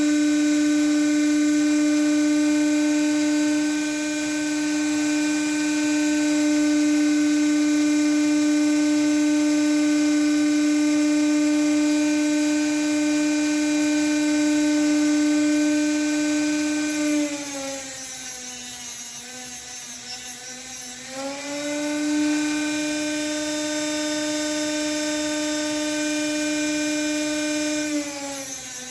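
Small high-speed rotary grinding tool running with a steady whine while grinding small parts down to length. Its pitch sags twice, for several seconds about two-thirds of the way in and again near the end, as it is pressed into the work.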